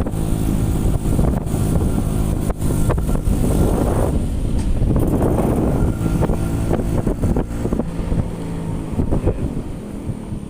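Motorcycle engine running while riding, with wind buffeting the microphone; the engine sound eases off near the end.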